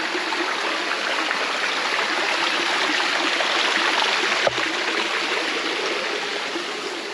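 Forest stream water rushing steadily, with one brief knock about four and a half seconds in.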